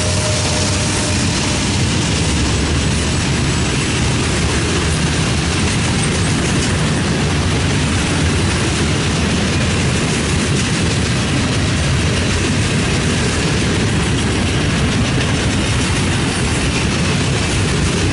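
Freight train passing close by: the trailing diesel locomotives, then a long string of gondola cars rolling past. It makes a steady, loud rumble of wheels on rail with faint clacking.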